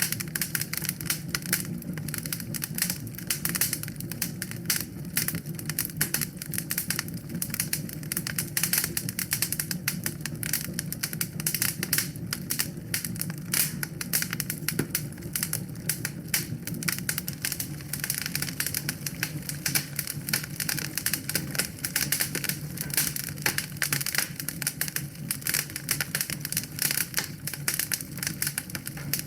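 Wood fire crackling in a fireplace: dense, irregular pops and snaps over a low steady rumble of the flames.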